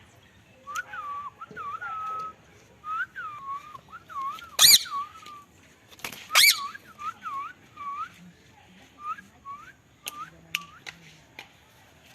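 Indian ringneck parrot whistling: a string of short whistled notes that dip and rise in pitch, broken by two loud shrill calls, the first a little after four seconds in and the second about two seconds later.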